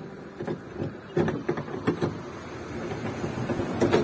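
A few short knocks and clicks of tools working on a punctured vehicle wheel, over a steady low hum.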